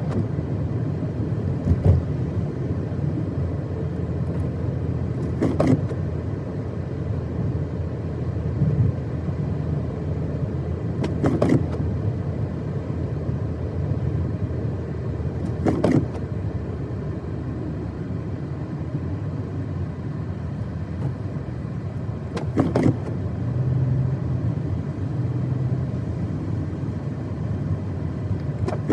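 Car driving on a snowy road, heard from inside the cabin: a steady low rumble of engine and tyres, with a short sharp swish or knock about every five to six seconds.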